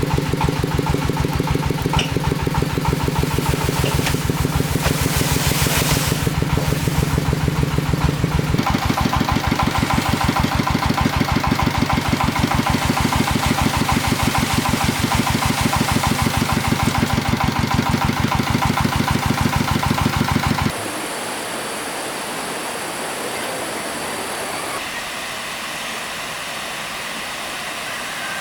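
Single-cylinder diesel engine of a công nông farm truck running steadily with a rapid, even thud. About three quarters of the way through, it gives way abruptly to a steady rush of flowing water.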